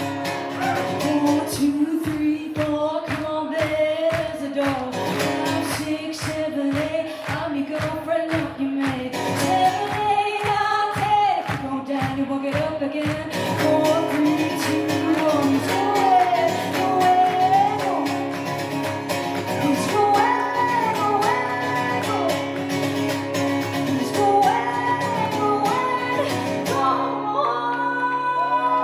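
Live pop-rock band with a woman singing lead over a steady drum beat, heard in a concert hall.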